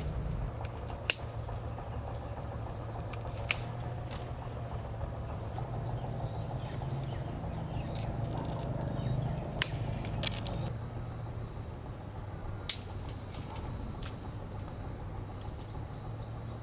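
Four sharp clicks spaced a few seconds apart, over a steady low hum and a faint, steady high tone.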